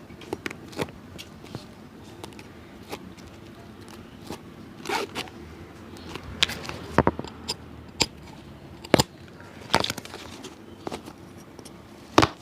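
Irregular sharp clicks, taps and short scrapes of a cobbler's hand work on a shoe, with a few louder strikes spread through, over a low steady hum.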